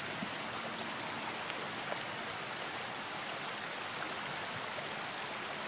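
Floodwater flowing in a strong current, a steady even rush of water.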